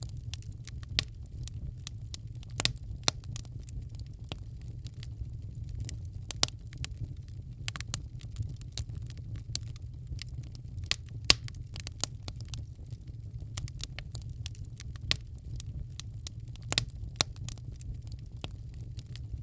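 Wood fire in a fireplace crackling, with irregular sharp pops, a few of them loud, over a steady low rumble of the burning.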